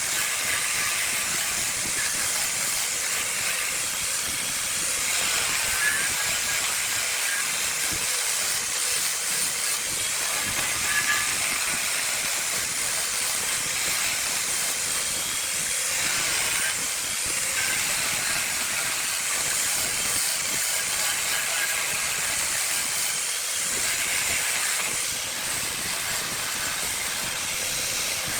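Jackfruit wood spinning on a wood lathe with a cutting tool or sandpaper held against it: a steady hiss.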